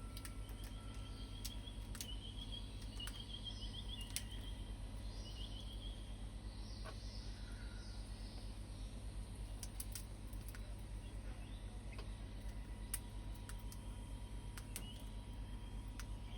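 Birds chirping in short warbling phrases, with scattered sharp clicks, over a steady low hum.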